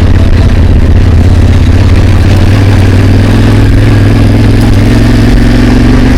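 Motorcycle engine running steadily at low revs on a rough track, loud and even, with a higher hum joining about halfway through.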